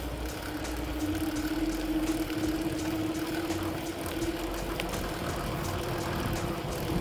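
A motor vehicle's engine running close by with a steady hum, over the wind and road noise of a moving bicycle.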